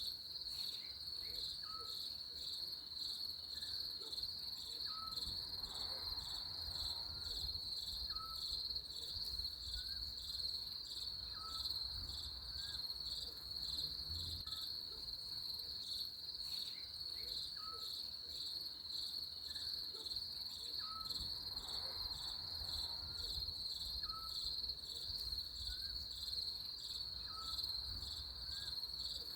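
Crickets chirring in a steady, continuous high trill, with faint short chirps from another animal repeating every second or two beneath it.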